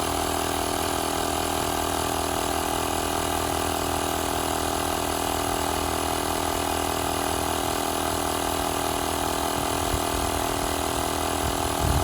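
Tower Top portable tire pump running steadily as it inflates a truck tire, a constant mechanical buzz made up of several steady tones.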